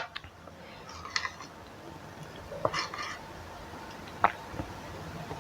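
Fork and spoon clicking against a bowl a few times, with faint eating sounds between the clicks.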